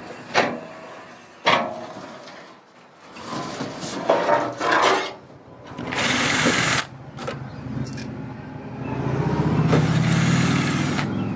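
Power drill working in bursts, with a few sharp knocks early on and a longer steady run of the motor near the end.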